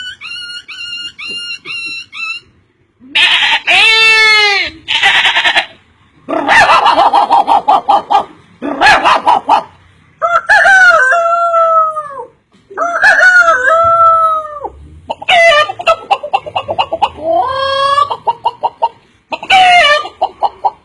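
Chickens calling: a quick run of short, rising clucks, then a series of separate loud crowing and clucking calls, cut off abruptly with short gaps between them.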